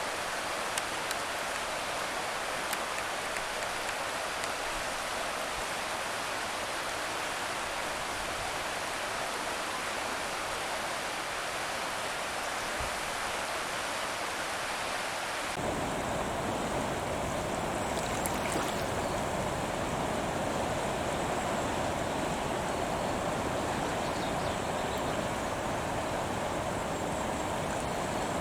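Steady rushing outdoor noise with no distinct bird calls, only a few faint clicks. The noise changes character abruptly about halfway through, becoming fuller and deeper.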